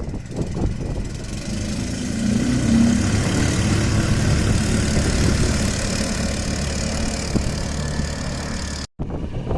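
A 7 hp mud motor (surface-drive outboard) running steadily while pushing a boat, growing louder in the first few seconds. It is cut off suddenly near the end, and a quieter stretch of engine and wind noise follows.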